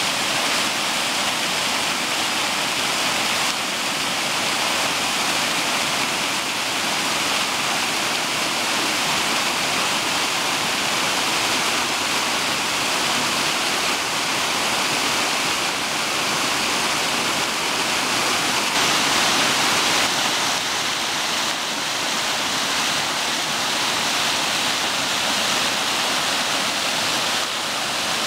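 Stream water rushing in a steady, loud hiss.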